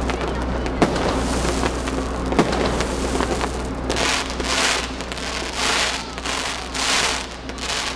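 Aerial fireworks bursting, with a dense crackle of glittering stars that sounds like heavy rain. A couple of sharp bangs come in the first half, and several loud hissing surges follow in the second half.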